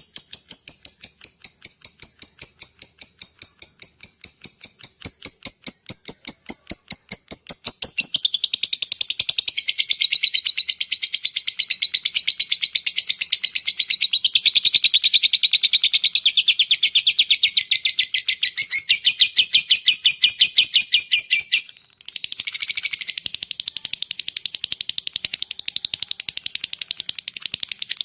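A lovebird calling: a fast run of evenly repeated high chirps, which changes at about 8 s into a long, lower, dense chattering trill. The trill breaks off briefly near 22 s, then picks up again.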